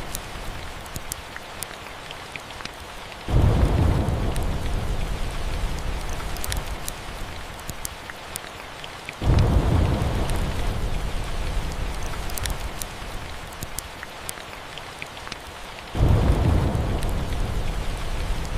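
Steady rain with the small sharp crackles of a wood fire, while thunder rumbles three times, each rumble starting suddenly and fading away over several seconds.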